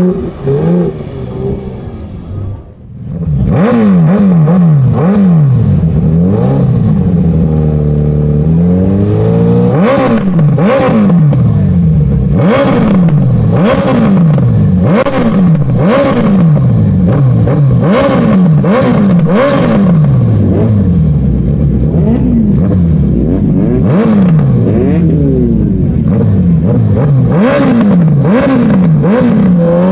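Superbike engine revved hard over and over, its pitch climbing and falling about once a second, with sharp crackling pops. It starts in earnest about three seconds in, after a brief dip.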